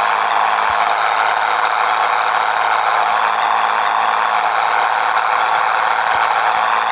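Scania 113 truck running steadily on the road, its engine and road noise holding even throughout.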